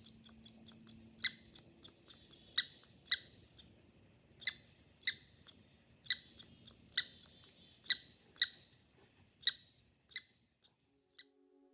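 A St. Bernard × Bernese Mountain Dog crunching on a round slice of wood, its teeth making a quick run of sharp cracks. The cracks come two or three a second at first, then thin out and stop near the end.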